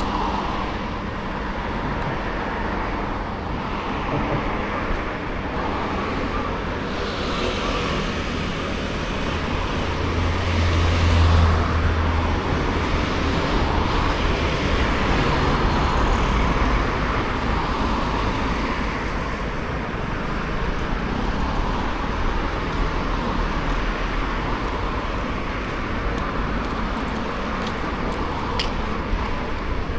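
Steady road traffic noise, with a louder low rumble about ten seconds in as a vehicle passes close by.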